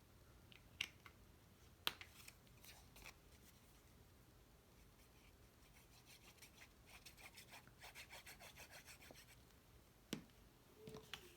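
Faint handling of cardstock: a few sharp taps and clicks, and a run of quick rubbing strokes in the middle as a glued paper piece is pressed down by hand.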